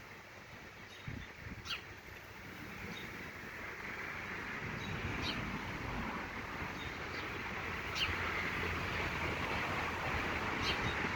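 Short, quick-falling bird chirps, about four of them a few seconds apart, over an outdoor rush of noise that swells a few seconds in and holds.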